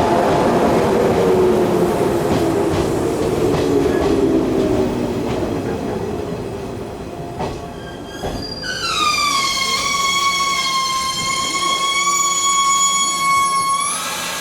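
An electric train running through the station, its rumble and motor tones fading over the first half. About nine seconds in, a long, high, steady tone from a train starts, dipping slightly in pitch at its onset, and cuts off sharply near the end.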